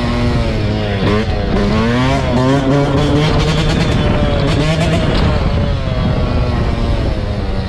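Dirt bike engines running and revving, their pitch rising and falling. About one to three seconds in, two engine notes cross as they go in opposite directions.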